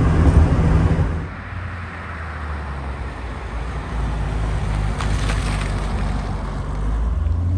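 Road and engine noise inside the car at highway speed for about a second, then the quieter sound of the 1970 Mercedes-Benz 280 SL's 2.8-litre inline six heard from outside as the car drives by, its low hum growing louder through the second half.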